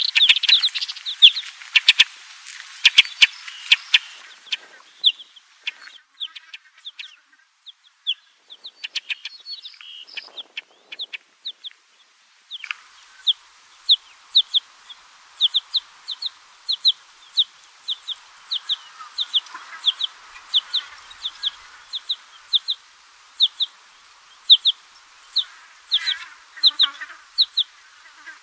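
Small songbird calling: dense, overlapping high chirps at first, then, after an abrupt change about a third of the way through, one short high note repeated steadily about two to three times a second.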